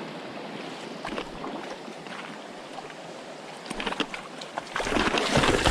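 Flowing stream water, with irregular sloshing and splashing that gets louder from about four seconds in.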